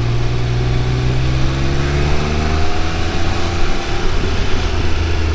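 Triumph Speed Triple 1200 RR's inline three-cylinder engine pulling on the move, its note rising slowly and steadily, over a constant rush of noise.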